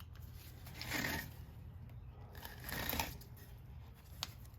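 Handling noises from an out-the-front knife whose bent tip keeps the blade from retracting: two short scraping rustles and one sharp click near the end.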